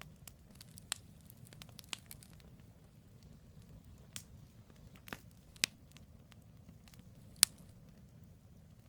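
Firewood crackling and popping in a campfire: scattered sharp pops, a quick run of small crackles in the first couple of seconds and the loudest single pop near the end, over a low steady rumble.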